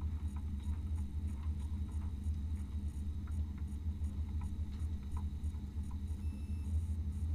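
Off-road race vehicle's engine running at a steady low rumble, with a few faint small ticks over it.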